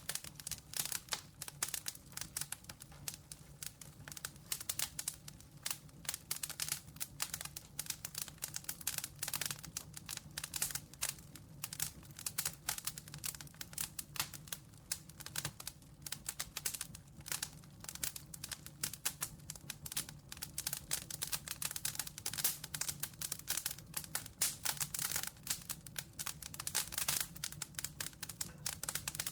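Campfire crackling: a dense, irregular stream of small pops and snaps from burning wood.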